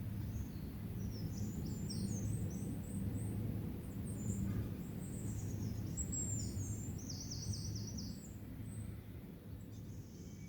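Small songbirds chirping in quick high phrases, with a run of about five rapid repeated notes near the end, over a steady low rumble.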